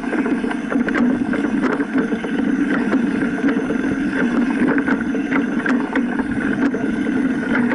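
Steady vehicle-type running noise with wind on the microphone and many small clicks throughout.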